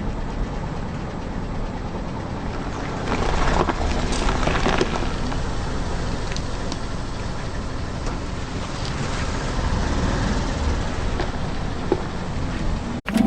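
Car engine running slowly as the tyres roll over and crush objects, with a spell of crackling and crunching about three to five seconds in and a few single snaps later.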